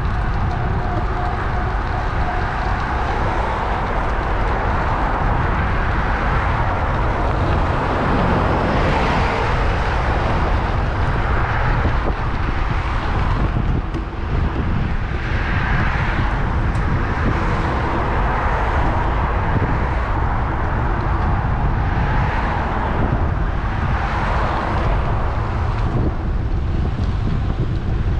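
Wind buffeting the microphone of a camera on a moving bicycle, a steady heavy rumble, with road traffic passing alongside in several swells that rise and fade.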